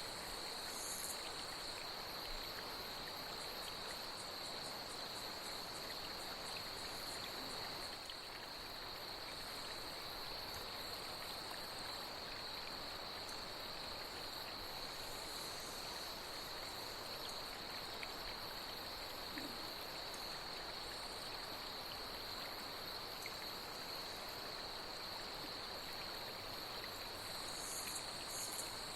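Night nature soundscape: a steady high-pitched insect chorus over the even rush of flowing water, with brief higher insect buzzes now and then, one about a second in and another near the end.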